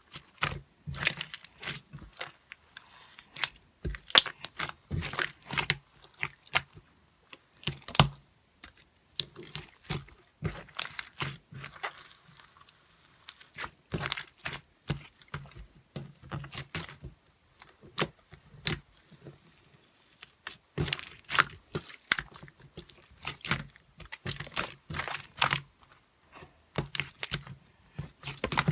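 Irregular clicks and taps in quick clusters, with short pauses between them.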